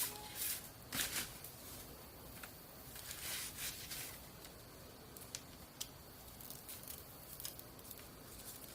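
Rustling, with short noisy swishes and scattered light clicks and snaps.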